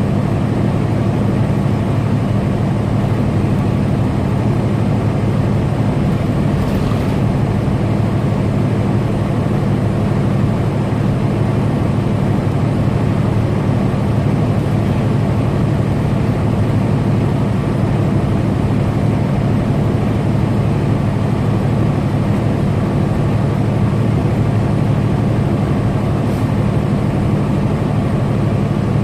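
Semi truck driving steadily on the highway: a continuous low engine drone with road noise, unchanging throughout.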